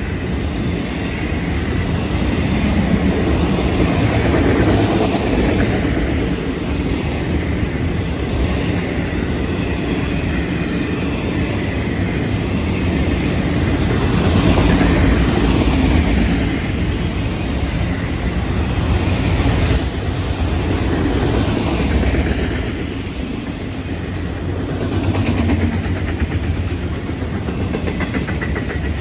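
Freight train's autorack cars rolling past close by: steady rumble of steel wheels on the rails, swelling and easing slightly, with occasional clicks.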